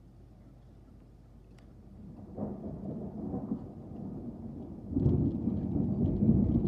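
Thunder rumbling. It is faint for the first two seconds, builds from about two seconds in, and swells into a loud, deep rumble about five seconds in that keeps going.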